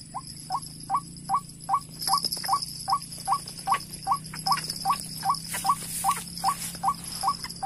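White-breasted waterhen call used as a trapping lure: a steady run of short, slightly rising notes, about two and a half a second. Insects shrill steadily behind it.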